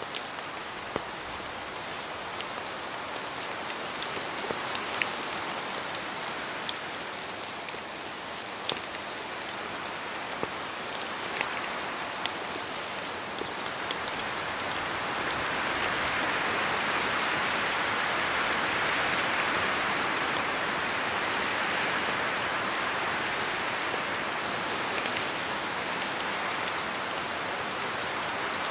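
Steady rain falling in a forest, a continuous hiss with scattered sharp drop ticks, swelling louder for several seconds around the middle and then easing slightly.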